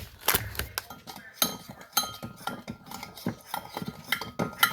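A spoon stirring in a small cup, clinking and scraping against its sides in a quick, irregular run of clinks.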